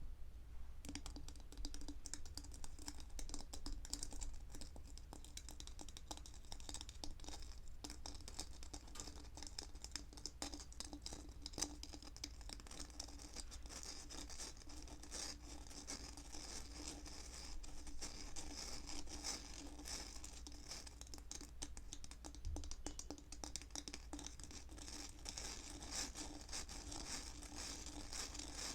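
Close-up ASMR trigger sounds: a continuous stream of fine scratching and crackling, made by hands working an object close to the microphone.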